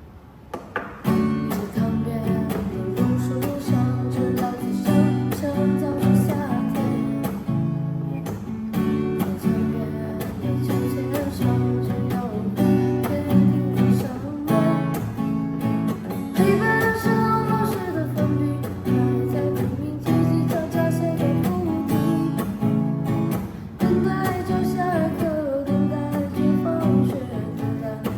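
Acoustic guitar strummed in a steady rhythm, accompanying a voice that sings a melody in places.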